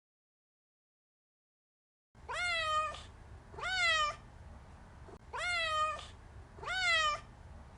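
Domestic cat meowing four times, starting about two seconds in, the meows roughly a second and a half apart, each rising and then falling in pitch.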